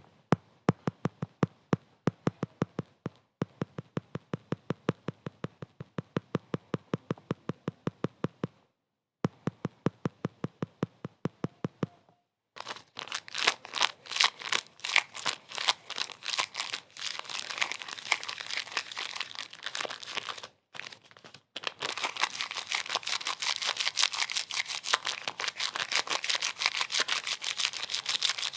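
A run of sharp, regularly spaced clicks, about four a second, with two brief silent breaks. From about 12 seconds in the clicks turn louder and denser, into a rapid crackling.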